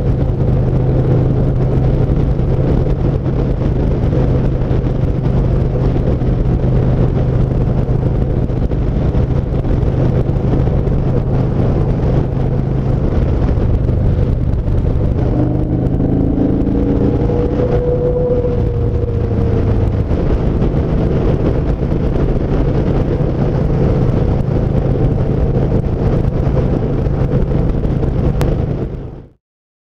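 Yamaha SCR950's air-cooled V-twin running steadily at speed, with road noise. Its pitch shifts a little past halfway, then the sound cuts off abruptly just before the end.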